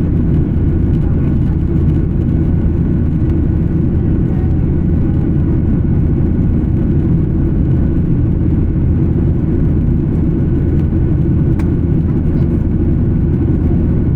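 Cabin noise inside an Embraer 175 regional jet in flight: the steady low rumble of its engines and the airflow, with a faint high whine over it.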